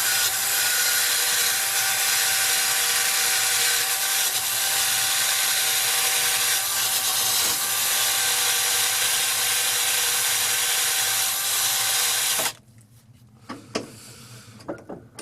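Small power tool spinning a small wheel against a vintage auger bit to clean it. It gives a steady whine with scraping, and cuts off suddenly about twelve seconds in, followed by a few faint handling ticks.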